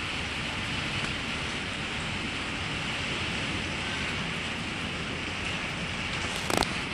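Steady rain falling on metal carport covers, an even hiss, with a short click or knock near the end.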